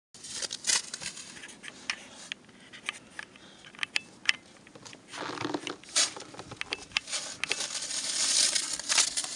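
Crunching and scraping in deep, very cold snow: irregular crisp crunches and scrapes, growing louder over the last couple of seconds.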